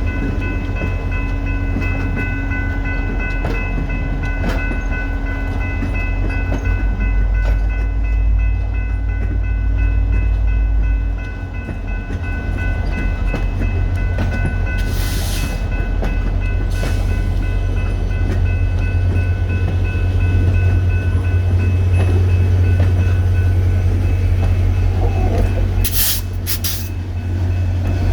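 VIA Rail EMD F40PH-2 diesel locomotives running with a steady low rumble and a high steady whine that fades out about halfway through. There are short sharp noises around the middle and again near the end.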